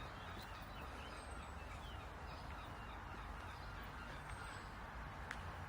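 Faint steady outdoor background noise with distant birds chirping now and then, and a single light click near the end.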